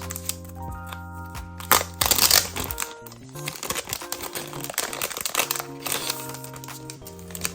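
Background music with steady held notes over paper and plastic crinkling and rustling from stickers and stationery being handled, with a louder, longer crinkle about two seconds in.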